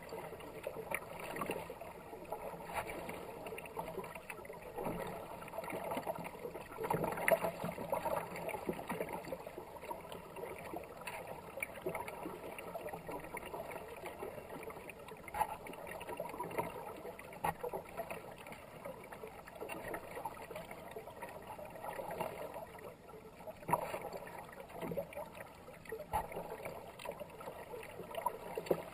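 Kayak paddle strokes dipping and splashing, with water rushing past the hull on a fast-flowing river.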